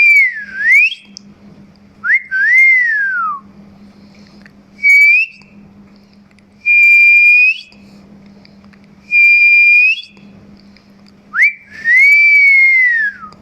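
A series of about seven clear whistles: some swoop down and back up, some arch and fall away, and two are held level for about a second before flicking up at the end. They are whistled tunes for a pet myna to learn to copy.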